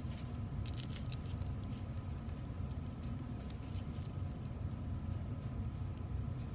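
Faint scattered ticks and light taps of a pen marking fold lines on a measuring strip at a workbench, over a steady low hum.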